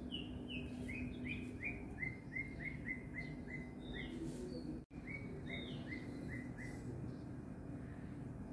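A small bird calling: runs of short, quick downward chirps, about three a second, one run then another after a short break. A steady low hum sits underneath, and the sound drops out for an instant about five seconds in.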